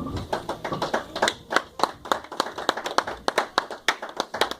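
A small group of people clapping, each clap distinct rather than merging into a roar, thinning out near the end.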